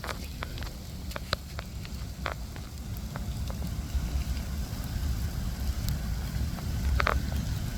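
Wind rumbling on the microphone during a freezing-rain storm, with scattered sharp ticks of drops striking nearby surfaces.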